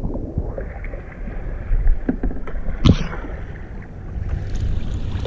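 Kayak out on the ocean: wind rumbling on the microphone over sloshing water, with two short knocks about two and three seconds in.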